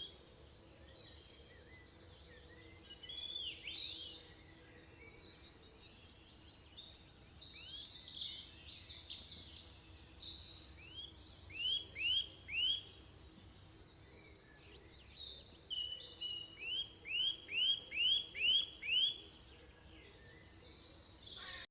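A small bird calling in bursts of quick, high, rising chirps and rapid trills, ending in a run of about seven evenly spaced rising chirps.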